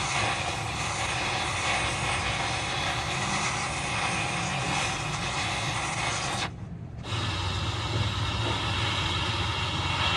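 Steady workshop machine noise: a motor hum under a loud, even hiss. The hiss cuts out for about half a second, six and a half seconds in, while the hum keeps running.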